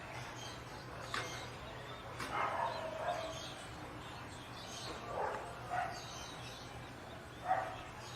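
A dog barking several times at irregular intervals.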